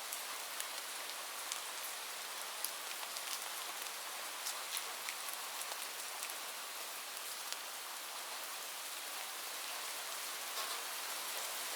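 Steady rain falling on a roof: an even hiss with scattered sharp drop ticks.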